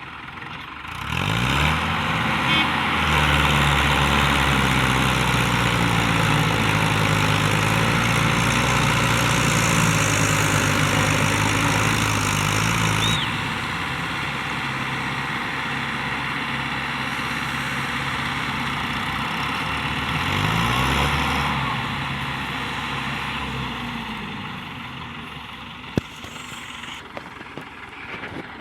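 Farm tractor engine revving up and labouring hard under load as it tows a tractor stuck in wet soil. It eases off about halfway through, revs up again briefly, then dies down, with a single sharp click near the end.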